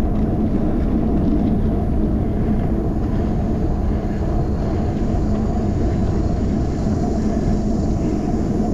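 Steady low wind rumble on a handlebar-mounted action camera's microphone while cycling, mixed with the bicycle's tyre and road noise.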